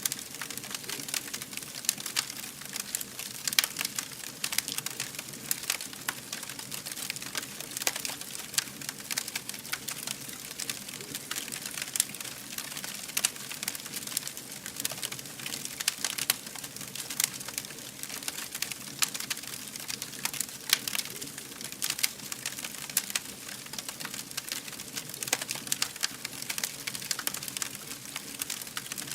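Wood fire burning, with steady crackling and frequent sharp pops and snaps over a constant hiss.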